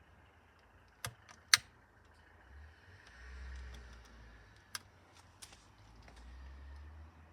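Burning kitchen roll and DVD crackling: a few sharp isolated cracks, the loudest about a second and a half in, over an intermittent low rumble.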